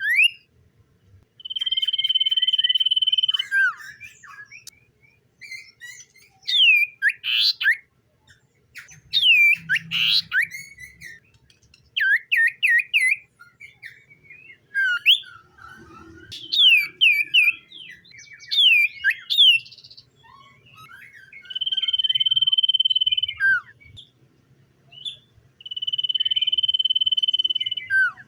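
Common iora singing: long whistles held on one note for about two seconds, each ending in a quick downward slur, heard three times, with runs of quick rising and falling chirps between them.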